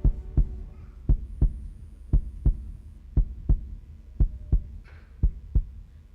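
Pairs of short, low thumps repeating about once a second in a steady heartbeat-like rhythm, with faint voices briefly near the end.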